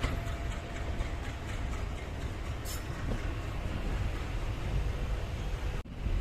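Passenger train running on the track, a steady low rumble of the carriages in motion, with a brief dropout in the sound near the end.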